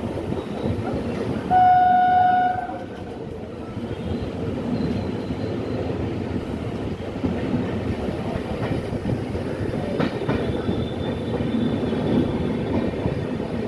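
Train running on the rails with a steady rumble and wheel clatter; about a second and a half in, its horn sounds one single-pitched blast lasting about a second.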